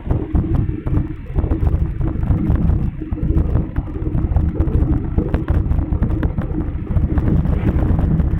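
Wind buffeting the microphone of a camera carried on a moving bicycle: a loud, steady low rumble, with faint scattered ticks from about halfway through.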